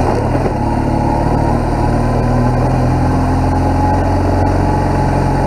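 BMW R1200GS flat-twin boxer engine pulling steadily up a hill in first gear at low revs, a steady engine note with no change in pitch, the bike's torquey, tractor-like climbing.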